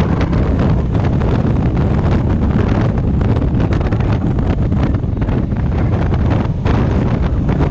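Heavy wind buffeting on the microphone of a moving motorcycle, with the Honda African Twin's engine running steadily underneath.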